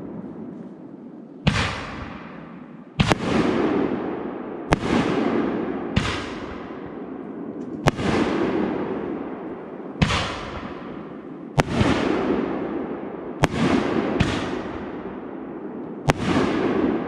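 Fireworks display: about ten sharp bangs, one to two seconds apart, each dying away over a second or so.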